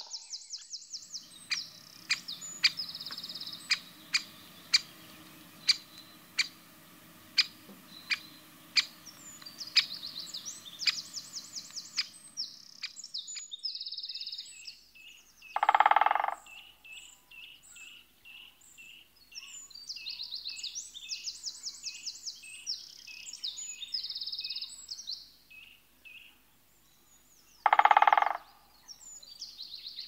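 Small songbirds singing and chirping, with high, rapid trills that recur every few seconds. Twice, once about halfway through and once near the end, a louder, lower sound under a second long stands out.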